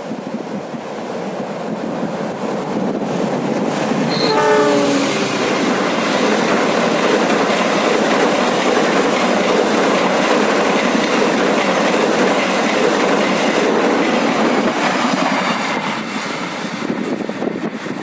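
Passenger train passing close by at speed, its wheels clattering over the rails as the noise builds, stays loud for about ten seconds and then eases near the end. A brief horn blast sounds about four seconds in.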